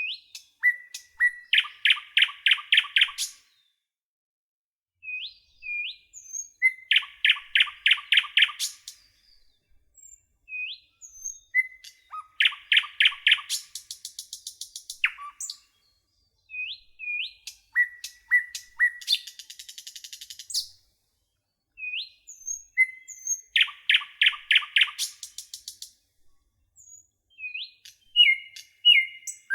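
A nightingale singing in separate phrases with short pauses between them. Each phrase opens with a few short rising notes and breaks into a fast run of repeated notes; some end in a high buzzy trill.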